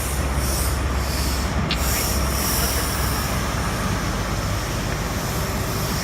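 Train running on the line, a steady rumble with a high hiss or squeal that swells in the first few seconds and then eases.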